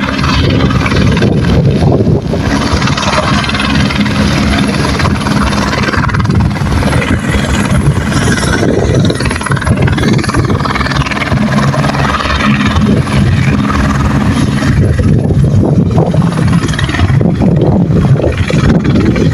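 Helicopter running at close range: loud, steady rotor and engine noise with a low drone that holds throughout.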